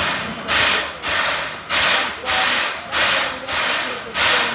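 Steam locomotive chuffing slowly, with even exhaust beats about two a second as it moves at low speed during shunting.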